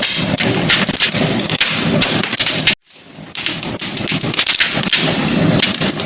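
Wood fire crackling in a fireplace: a steady hiss with many sharp pops and snaps. It cuts out abruptly a little under three seconds in, then returns softer and builds back to full level.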